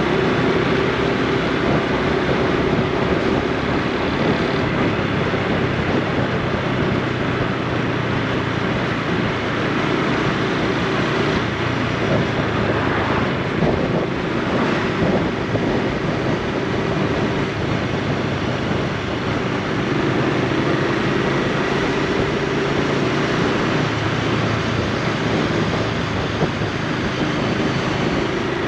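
Honda Super Cub C125's single-cylinder engine and exhaust running while it is ridden, the engine note shifting in pitch as speed changes, over wind and road noise on the microphone.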